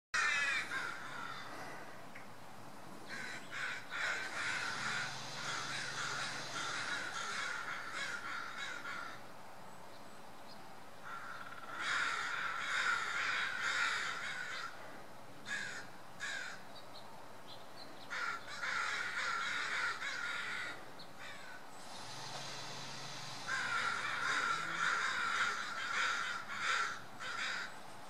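Birds calling in four long bouts of rapid, rough calls, each lasting a few seconds, with quieter gaps between.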